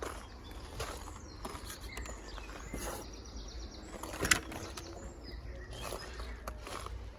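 Footsteps with scattered knocks, the loudest a little past four seconds in, over a low rumble. A bird gives a brief high trill about three seconds in.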